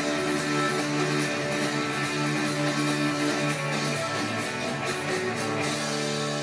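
Live band playing the instrumental close of a song after the last vocal line: strummed guitar over held chords, the chord changing twice.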